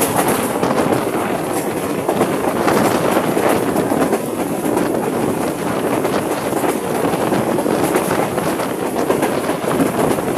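Passenger train running on the track: a steady rumble and rattle of wheels on rails, with faint clicks running through it.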